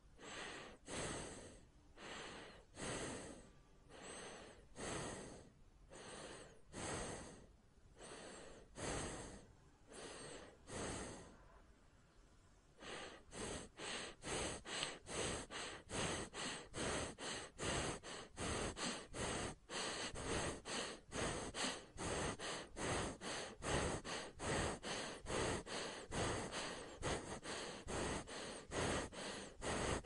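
A person breathing audibly through the mouth or nose, with slow breaths about one a second. About thirteen seconds in, the breathing turns quicker and a little louder, about two breaths a second.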